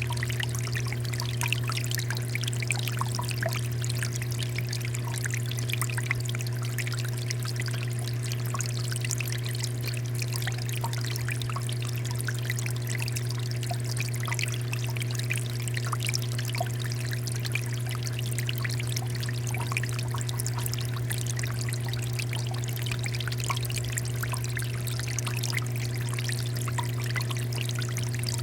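Water fountain flowing steadily: a continuous pouring, splashing stream of water, with a steady low hum underneath.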